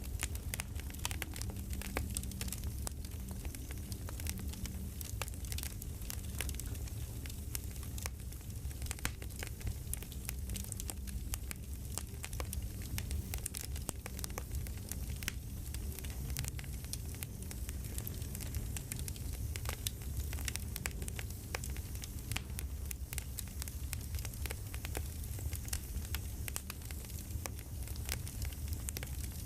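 Campfire crackling steadily, with a constant low rumble of flames and frequent irregular pops and snaps.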